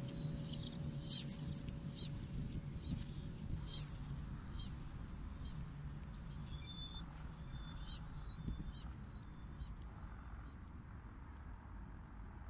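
Small birds chirping: a quick series of short, high calls, each falling in pitch, over a low background rumble.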